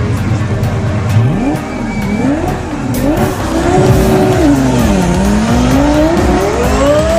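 Twin-turbo Lamborghini Gallardo V10 revving hard. After a steady low note for about a second, the pitch climbs and falls several times, with a last steep climb near the end.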